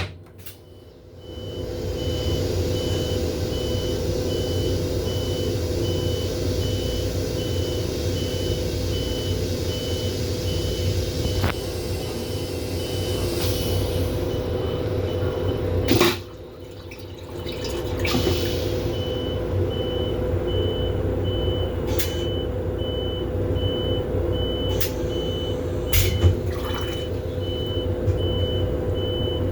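Electronic beeper giving a steady high beep about twice a second over the constant hum of an M7 railcar. The beeping breaks off around the middle and starts again a couple of seconds later, with a few sharp clicks along the way.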